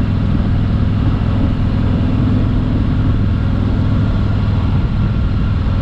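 Milwaukee-8 107 V-twin engine of a 2017 Harley-Davidson Freewheeler trike running at a steady pace while riding, with an even low engine note and no change in revs.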